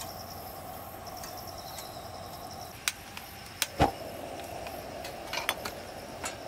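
Crickets chirping in a steady pulsing trill, with a few sharp clicks and knocks of handling from about halfway; the loudest is a dull thump a little before the four-second mark.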